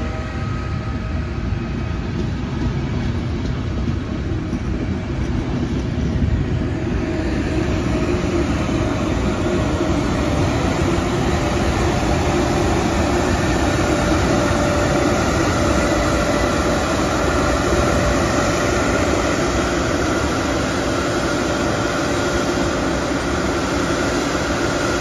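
Frecciarossa ETR500 high-speed electric train arriving along the platform: a steady, loud rumble of wheels on the rails, with a steady whine joining about halfway through.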